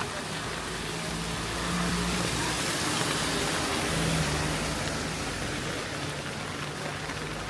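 A car passing on a wet road in steady rain. Its tyre hiss swells to a peak about three seconds in and then fades, over a low engine hum.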